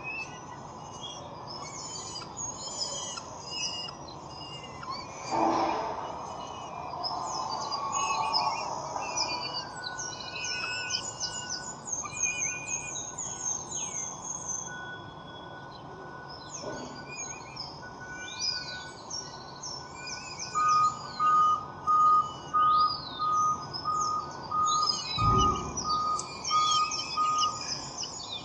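Wild songbirds chirping and singing, many short trills and calls overlapping. Near the end a louder, evenly paced series of short whistled notes repeats about one and a half times a second. Two dull thumps come about five seconds in and near the end.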